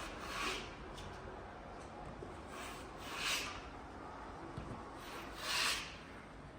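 Three slow rubbing strokes of a hand tool across the ceiling surface during crack repair, spaced about two and a half seconds apart.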